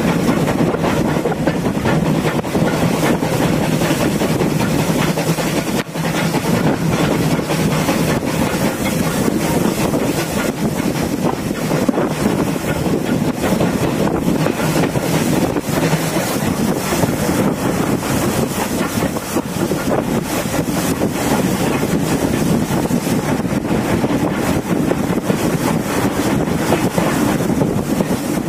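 Steam-hauled passenger train running along the line, heard from an open carriage window: a steady, loud running noise of wheels on the rails, with wind buffeting the microphone.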